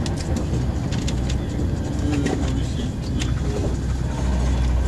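Inside a moving TGV high-speed train: a steady low rumble of the train running on the track, with scattered short, sharp clicks.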